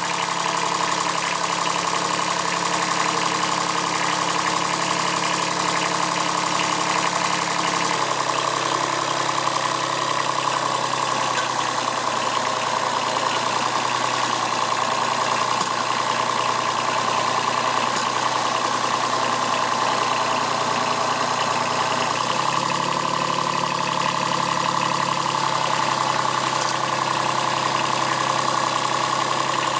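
Kubota B7001 compact tractor's diesel engine running steadily during a stump-pulling attempt. Its note drops about a quarter of the way in and picks back up about three quarters through.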